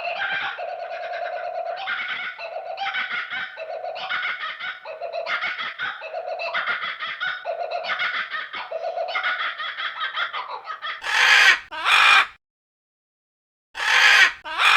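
An animal's rapid, chattering run of repeated pitched calls, a few per second, sounding like laughter. About 11 seconds in it gives way to much louder, harsh squawks: two close together, a short silence, then two more.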